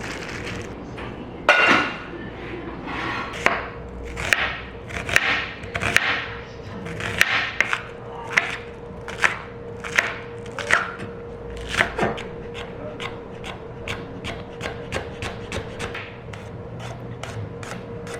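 A run of sharp knocks and scraping strokes, about one a second, giving way about twelve seconds in to quicker, lighter taps about three a second, under a faint steady hum.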